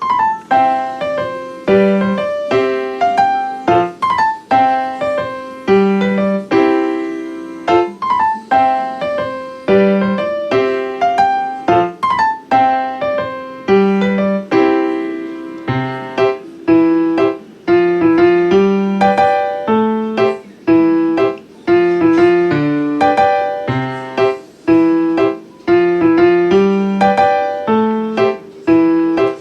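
Background music: piano or electric-piano notes played in a repeating melody with chords, each note striking and then fading.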